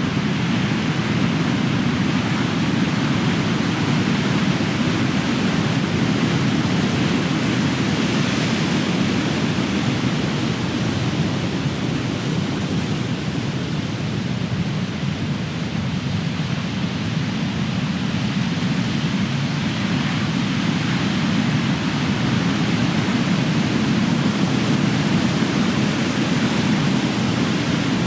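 Big ocean waves crashing on the shore: a steady, deep rumbling surf that swells and eases slowly, louder near the start and end.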